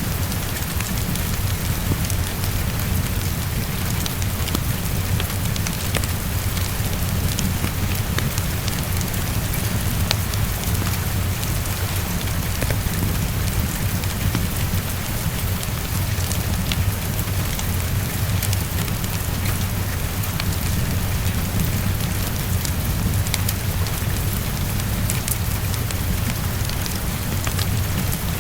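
Heavy rain falling steadily against a window, a constant hiss with a low steady rumble beneath it, mixed with the crackle of a wood fire: scattered sharp pops and ticks throughout.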